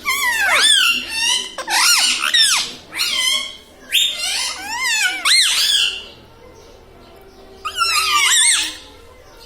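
Pet parrot giving shrill, squeaky calls with steep up-and-down pitch swoops, in three bursts with a pause before the last.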